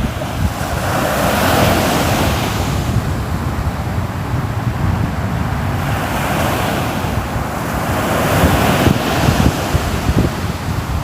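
Sea waves breaking and washing onto the shore, swelling twice, about two seconds in and again near the end, over a low rumble of wind buffeting the microphone.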